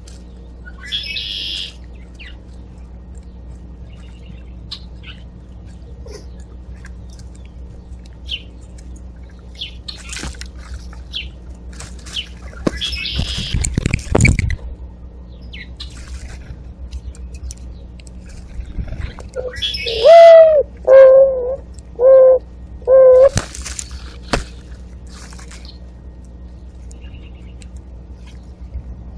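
Mourning dove cooing: a song of four low notes about twenty seconds in, the first one rising and falling, the loudest sound here. Short, high chirps of small birds come and go throughout.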